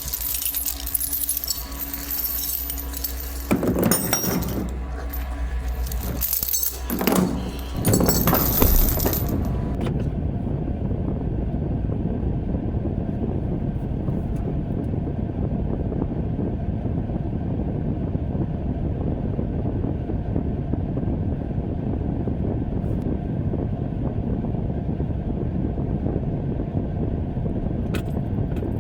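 Jangling and clanking with a few sharp knocks for about the first ten seconds, then a steady low rumble of the pickup truck running.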